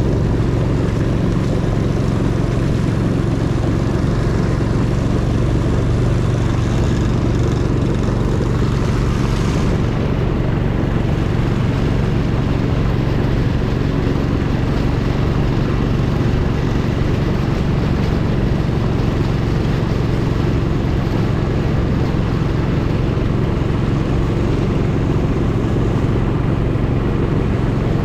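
Longtail boat engine running steadily under way, a constant low drone.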